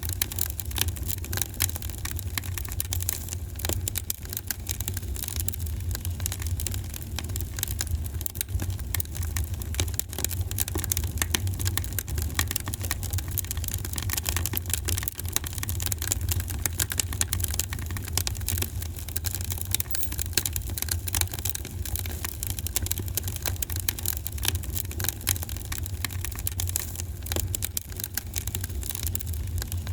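Fire in a fireplace crackling, with many small pops over a steady low rumble.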